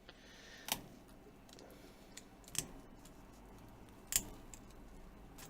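A few light, sharp clicks of plastic plectrums and a pry tool against the tablet's frame and glass as the glued screen is worked loose.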